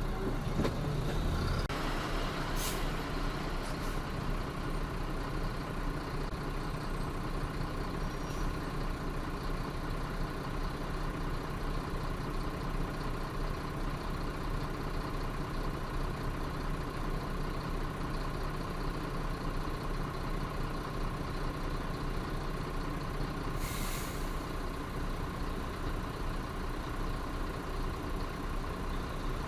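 Truck engine running steadily under road noise while driving, with a short hiss about 24 seconds in and a fainter one a couple of seconds in.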